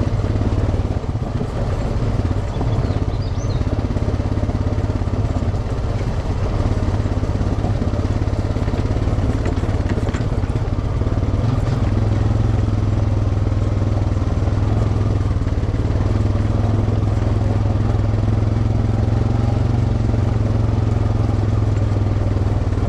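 Off-road vehicle engine running steadily under way, a low even drone that grows a little stronger about halfway through.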